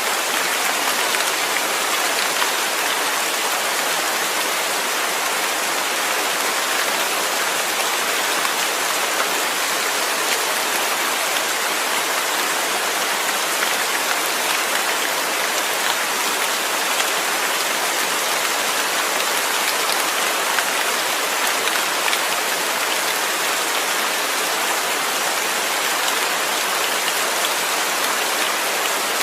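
Steady rain falling on a surface, an even hiss dotted with the patter of individual drops.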